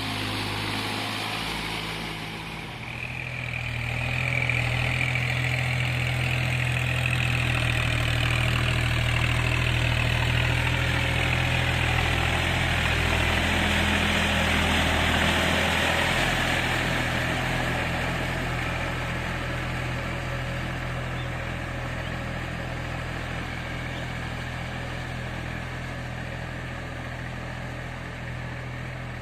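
New Holland 4710 tractor's three-cylinder diesel engine running steadily. It gets louder about four seconds in, its note changes around sixteen seconds, and it then slowly fades.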